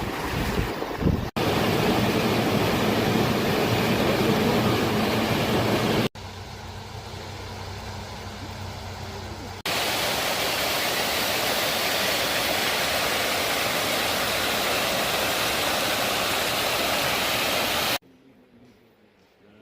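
Steady rush of flowing water from a mountain stream or waterfall, heard in several clips joined by abrupt cuts, one of them quieter. Near the end it cuts off suddenly to a faint hush.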